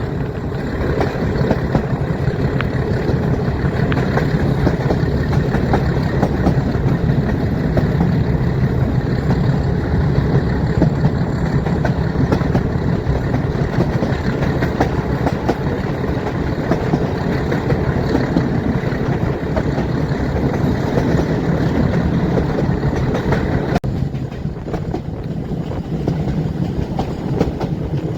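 Metre-gauge train running, heard from on board: the steady noise of the coach's wheels on the rails, with rail-joint clatter. About 24 s in, the higher part of the sound cuts off suddenly and the whole gets a little quieter.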